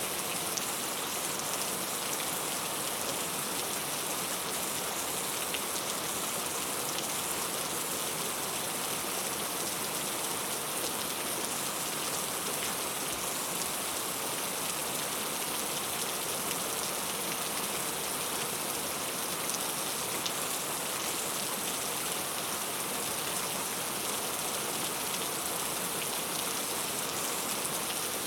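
Steady rain falling, a continuous even hiss with fine drop ticks.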